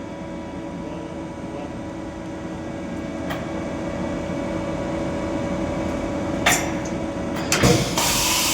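Vertical machining centre running with a steady hum during an automatic tool change: a few sharp clicks and a knock, then a loud burst of hissing compressed air near the end.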